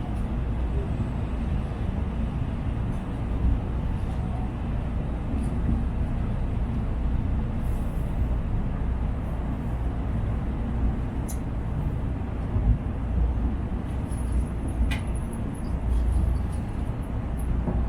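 Steady low rumble of a Shinkansen passenger cabin, with a few faint clicks and knocks.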